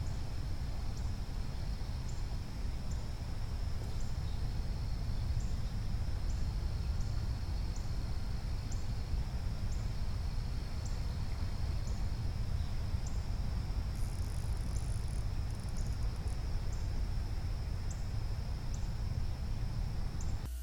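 Insects trilling steadily in a continuous high-pitched drone, with a faint regular tick about once a second and a few higher chirps about two-thirds of the way through, over a steady low rumble.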